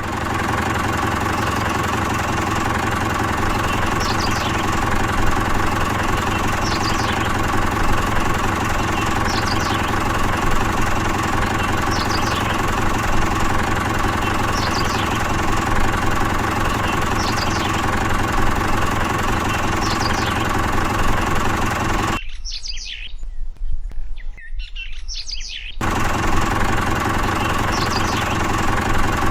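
A small motor running steadily for a mini water pump, with a short high chirp repeating about every two and a half seconds. The sound drops out for a few seconds near the end, then resumes.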